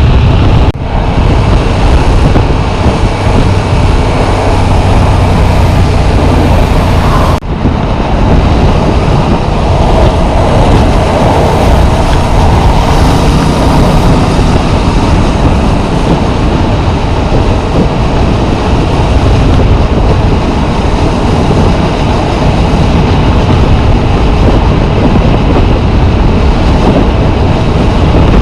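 Yamaha MT-07's parallel-twin engine running under way, mixed with strong wind rush on a chest-mounted camera. The sound drops out briefly twice: just under a second in and about seven and a half seconds in.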